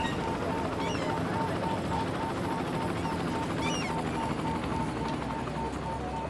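A machine or engine running steadily with a fast rattle and a rapidly pulsing tone; a bird chirps twice.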